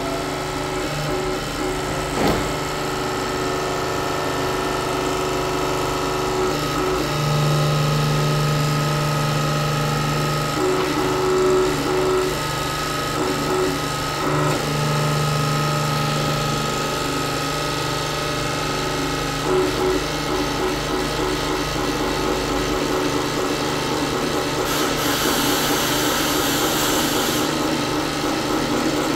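Workshop machinery and hand tools: a steady mechanical hum that grows louder twice for a few seconds, with scraping and clicking of tools and a short burst of hiss near the end.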